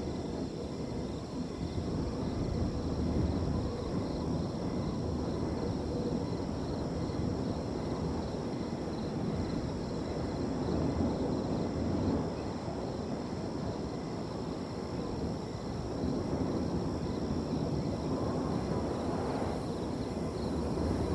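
Wind blowing in gusts, swelling and easing, with the steady high trilling of crickets over it.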